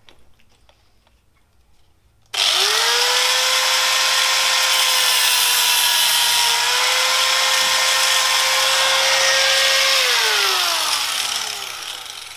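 Angle grinder with a cutting disc switched on about two seconds in, running at a steady high whine while cutting through a motorcycle clutch cable and its housing, then switched off near the end and winding down with a falling whine.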